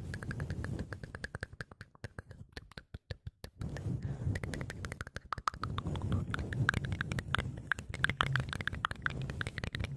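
ASMR mouth sounds close to the microphone: rapid wet clicking and smacking, thinning out briefly about two seconds in, then dense again.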